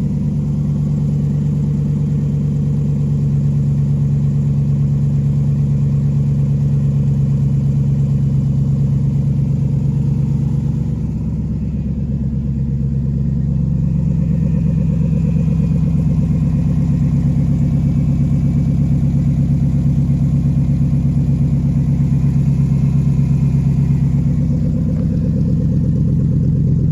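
Cobra roadster's V8 engine idling steadily as it warms up after a cold start, with a slight, brief dip in idle about eleven seconds in.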